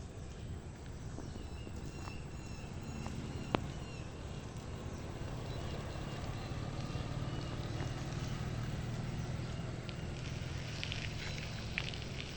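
A steady low rumble, with a faint series of short, repeated bird notes over it. There is one sharp click about three and a half seconds in, and scattered crackles near the end.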